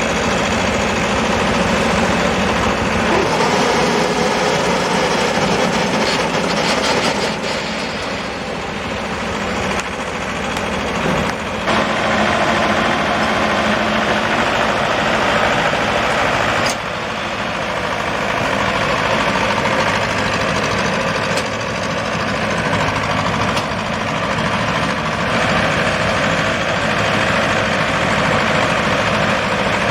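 Combine harvester running, a steady loud engine drone under dense mechanical noise, with a couple of abrupt shifts in the sound partway through.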